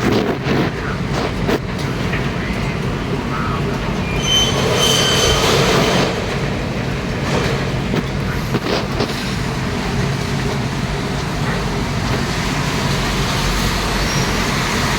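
Steady low rumble of a moving vehicle heard from on board, with a brief high-pitched squeal about four seconds in that lasts a couple of seconds.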